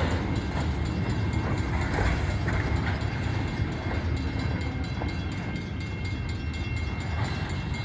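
Loaded coal train's hopper cars rolling past, a steady low rumble with light repeated clicks of steel wheels on the rails.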